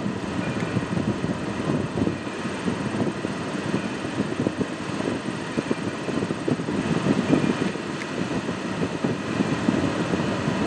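Railroad passenger coaches rolling past: a steady rumble of steel wheels on the rails, with many small irregular knocks and clacks.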